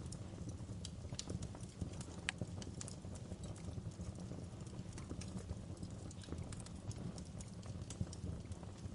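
Fire crackling in a fireplace: irregular sharp pops and snaps over a steady low rumble of burning.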